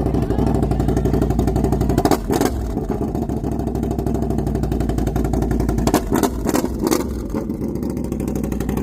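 Can-Am Renegade ATV engine running loud and deep through a custom split dual-pipe exhaust, with a few sharp cracks scattered through.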